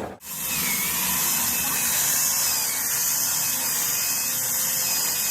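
A power tool running steadily with a strong, even high hiss and faint steady tones under it, starting just after a short break.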